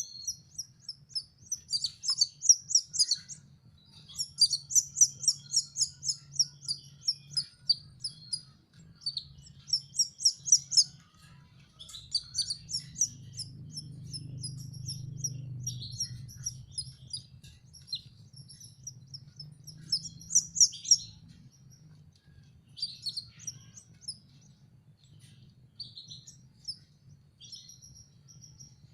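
Canary chicks chirping in rapid high-pitched bursts of many short notes, pausing and starting again: begging calls from young birds being hand-fed. A faint low hum runs underneath and grows briefly louder near the middle.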